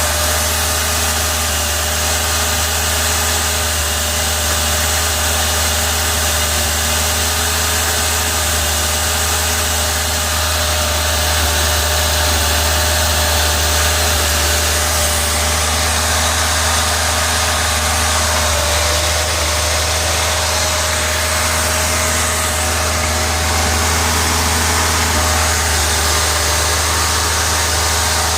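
1986 Ford Ranger's 2.3-litre four-cylinder engine idling with the rough idle that its owner has been trying to cure of misfires.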